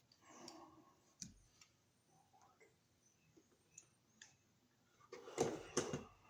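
Small clicks and handling noises of hand tools working electrical wire, as the stripped conductor is readied for the receptacle's screw, with a louder scraping rustle about five seconds in.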